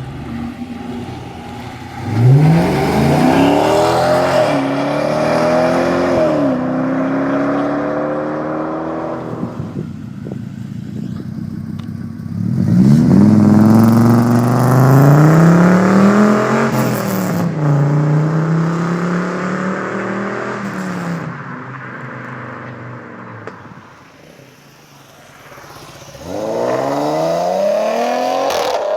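Car engine and exhaust accelerating hard in repeated pulls, the pitch climbing and then dropping at gear changes. The sound fades away for a couple of seconds past the middle, then another hard pull starts near the end.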